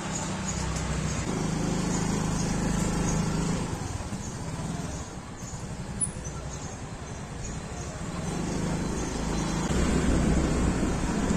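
Motor scooter running while being ridden, with road and wind noise. The engine note eases off around the middle and picks up again near the end. A short click comes about six seconds in.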